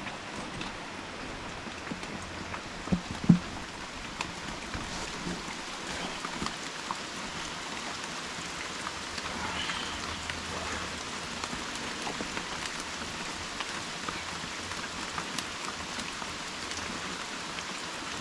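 Heavy rain pouring down steadily, with individual drops ticking sharply throughout and a single louder thump about three seconds in.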